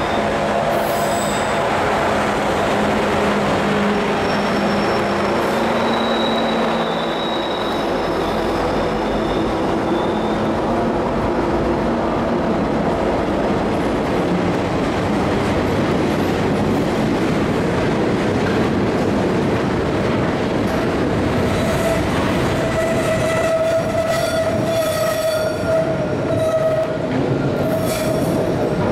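Norfolk Southern freight train passing on a curve: the diesel locomotives go by first, then a long string of freight cars rolls past with a steady rumble and steady high squealing tones from the wheels in the last several seconds.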